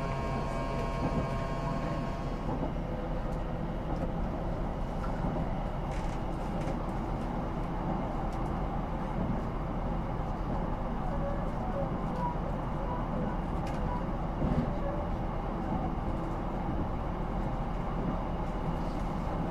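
Inside a passenger train running between stations: a steady low rumble of motors and wheels on the rails, with a faint steady whine that stops about two seconds in.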